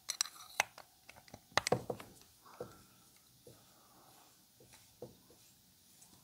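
Light clicks and knocks of tools and small parts being handled while a chainsaw is taken apart on a bench: a quick cluster in the first two seconds or so, then only a few faint taps.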